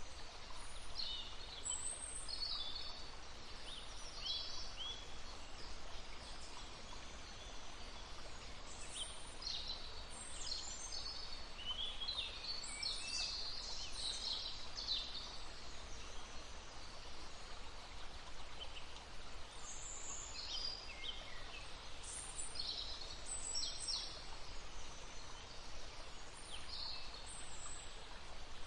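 Songbirds chirping and singing in short high phrases, busiest midway, over the steady rush of a stream.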